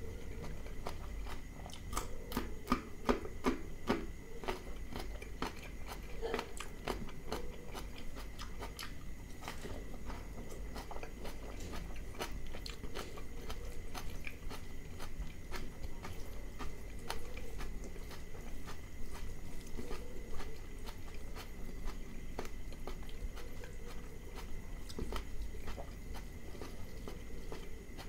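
Close-miked eating of mutton liver curry with rice: wet chewing and lip smacks, a dense run of sharp clicks thickest a couple of seconds in, along with the squish of fingers mixing rice into the curry.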